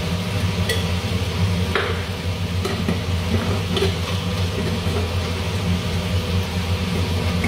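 Chicken sizzling in a pot of curry base, over a steady low hum of a range hood fan. A few light knocks of utensils or a jar on the counter come through it.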